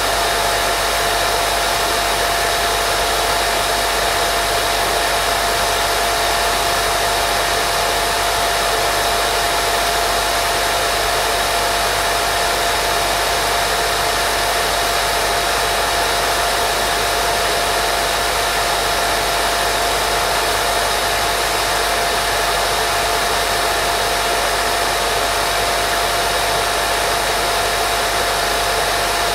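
Steady, unbroken white noise: an even hiss with a constant mid-pitched tone running through it.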